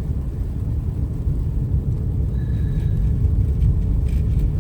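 Steady low rumble of a car driving on a freeway, road and engine noise heard from inside the cabin.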